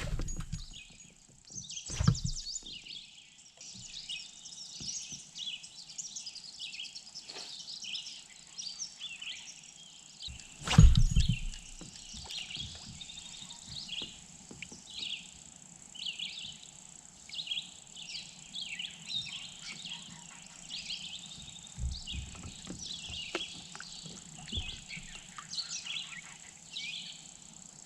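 Birds chirping and singing all through, many short high notes overlapping. Two thumps cut in, one about two seconds in and a louder one about eleven seconds in.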